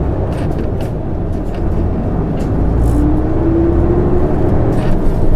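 Isuzu Erga (PKG-LV234N2) city bus's diesel engine pulling away and accelerating, the low rumble growing louder, with a faint rising whine about three seconds in and a few light rattles.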